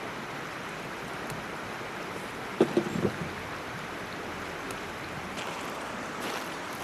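Steady rushing noise, with a short cluster of knocks a little under three seconds in.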